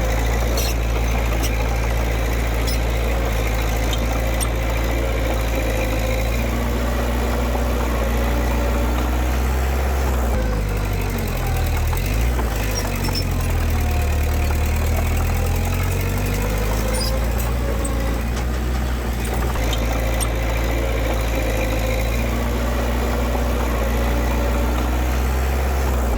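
Diesel engines of heavy earthmoving machinery running steadily. The engine pitch shifts up and down for a few seconds about halfway through.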